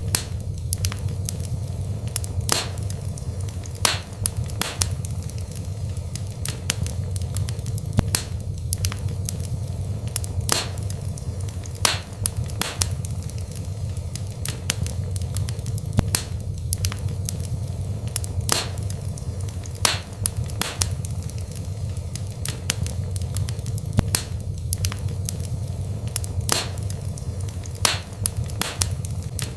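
Wood fire burning in a fireplace: a steady low rumble of flames with sharp, irregular crackles and pops from the burning logs, several a second.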